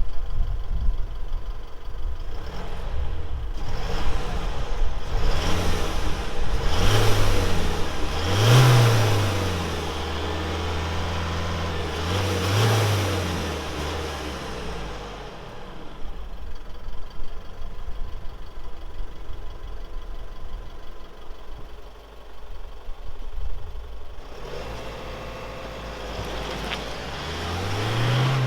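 Isuzu D-Max's 3.0-litre 4JJ turbo-diesel four-cylinder accelerating hard through a six-speed manual. The engine note climbs and falls back at each upshift, about three times in the first half. It then settles to a steadier, quieter run and climbs once more near the end.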